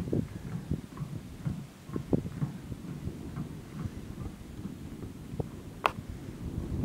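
Low, irregular rumble of wind or handling noise on the microphone, with one sharp click about six seconds in.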